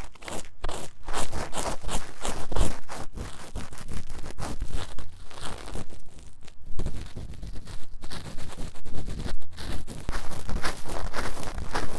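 Fast, vigorous scratching in the silicone ear of a 3Dio binaural microphone for simulated ear cleaning: rough strokes in quick succession.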